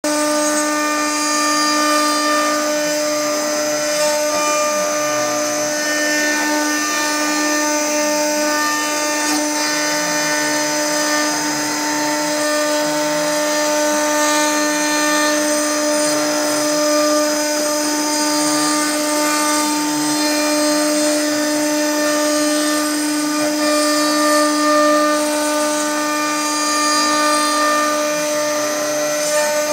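CNC router spindle running steadily with a constant whine as it carves plywood, while lower motor tones rise and fall every couple of seconds as the machine moves along its path.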